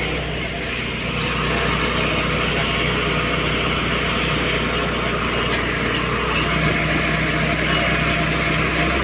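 Excavator's diesel engine running with a steady drone.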